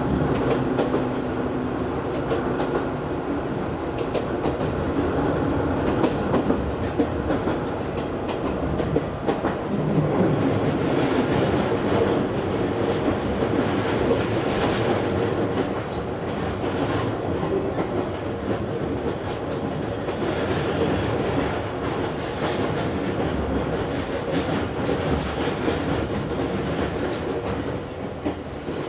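Izu Hakone Railway Series 3000 resistance-control electric train running, heard inside the passenger car: a steady hum with wheels clacking over rail joints.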